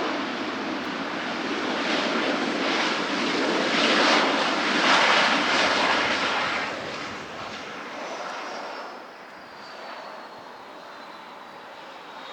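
An airliner's jet engines passing by: a broad roar that swells to a peak about halfway through, then fades, while a thin high whine slides down in pitch as it goes away.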